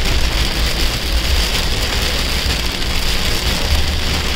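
Heavy downpour pelting a car's windshield and roof, heard from inside the moving car as a dense, steady hiss over a low rumble.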